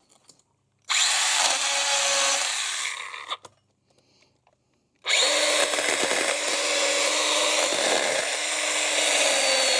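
Stihl battery-powered mini pruning chainsaw running in two bursts as it cuts overgrown branches: once for about two seconds, fading out after three seconds, then again from about five seconds in, steady to the end.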